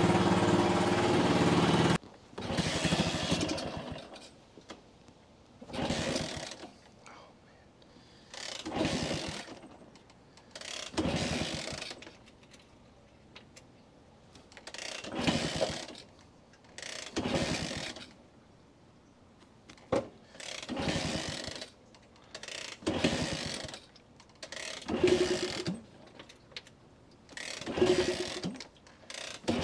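A small vintage motorcycle engine running, then cutting out suddenly about two seconds in, followed by about a dozen kick-start attempts, each a short mechanical ratcheting burst a couple of seconds apart, with the engine failing to catch. It has died after running and won't restart, a fuel problem the rider suspects is a clogged pilot jet or debris in the fuel line.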